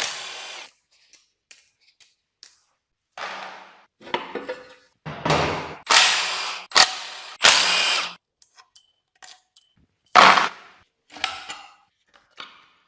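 Repeated short bursts of a power tool in a car workshop, each starting sharply and dying away, with brief gaps between them.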